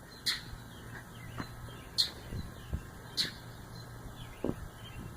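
Mockingbird giving three short, harsh scolding calls, each about a second apart, alarm calls at a cat it is mobbing. A few soft, low thumps fall between the calls.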